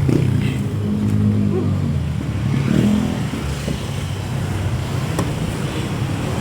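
Road traffic: a nearby motor vehicle's engine running, a low steady hum that rises and falls a little in pitch.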